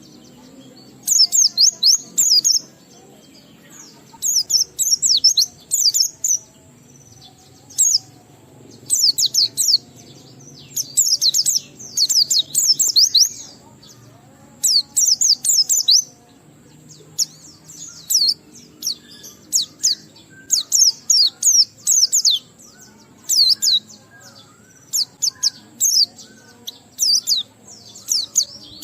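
White-eye (pleci) singing in fast, high twittering phrases of about a second or two each, broken by short pauses and repeated throughout: the long, continuous 'ngalas' song.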